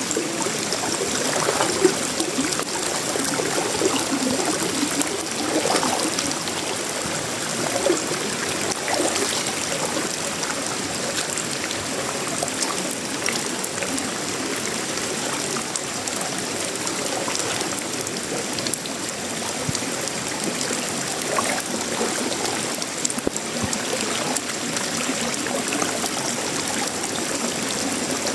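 Steady tropical rain falling on sheet-metal roofing, wood and leaves, with scattered louder drops.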